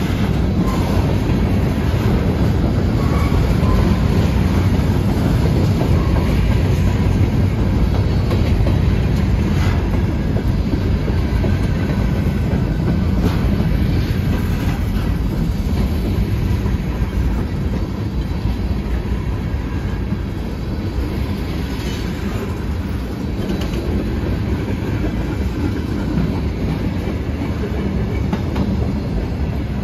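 Freight train cars (covered hoppers and tank cars) rolling steadily past: a continuous loud rumble of steel wheels on rail, with wheel clicks as the trucks pass over the crossing.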